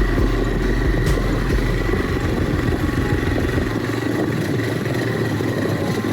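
Motorcycle engine running steadily under load as the bike climbs a steep track, with a dense noise haze over it. Its deepest rumble drops away about four seconds in.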